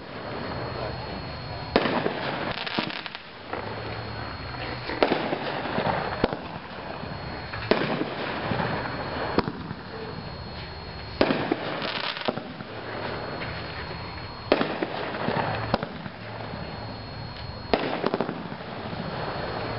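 Cannon 'Blue Boom' 10-shot consumer fireworks cake firing: six loud, sudden booming reports, about three seconds apart, each trailing off in a noisy tail.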